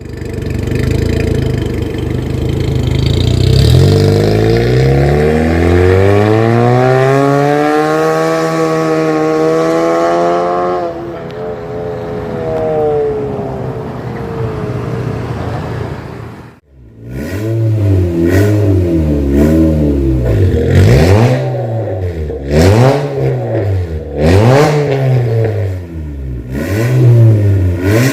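Honda CR-Z's 1.5-litre four-cylinder through an aftermarket full-system exhaust with a valvetronic cutout valve, being revved. First comes one slow, long rev that climbs, holds and falls back over several seconds. After a brief break, a string of about six quick throttle blips follows, each rising and dropping within a second or two.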